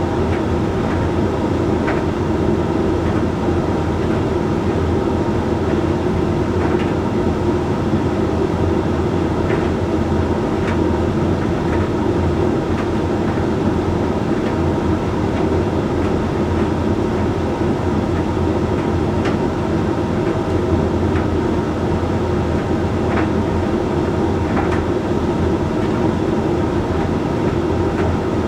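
Hoover Link X Care HLX C10DRGR condenser tumble dryer running steadily mid-cycle, its motor humming as the drum turns, with a few faint, irregular ticks.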